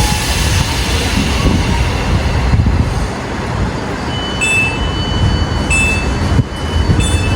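Train running through a station: a loud, steady rumble. From about halfway there is a high tone with a short beep repeating roughly every second and a half.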